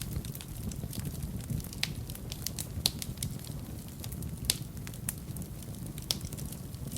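Wood fire burning in a fireplace: a steady low rumble of the flames with irregular sharp crackles and pops, a few louder pops scattered through.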